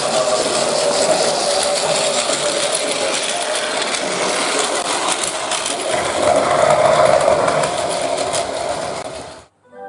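A train running, a steady whine over a rattling clatter, cutting off abruptly about nine and a half seconds in.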